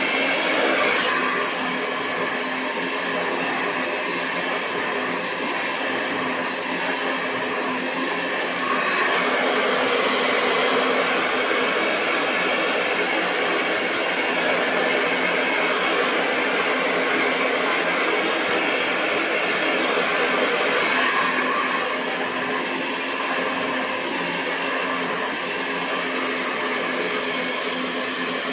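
Hair dryer running continuously: a steady rush of blown air over a constant motor hum. It grows slightly louder about a third of the way in and drops back about three-quarters of the way through.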